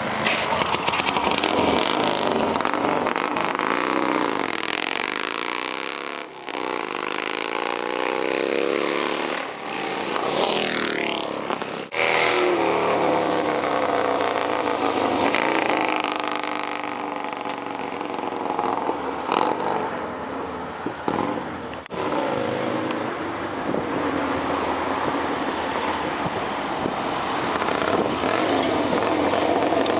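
1950 Vincent Black Lightning's 998 cc V-twin engine being ridden hard, revving up and falling back several times as it changes gear, with a few sudden short breaks.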